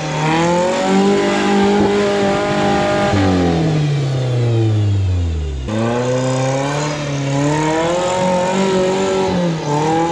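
Off-road rig's engine revving hard under load on a rock-crawling climb: revs held high, falling away from about three seconds in to a low point near the six-second mark, then climbing again.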